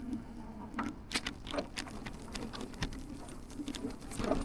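Faint, irregular ticking and clicking over a low steady hum: rattle and tyre noise from an e-bike rolling along a park path, picked up by the action camera's own microphone.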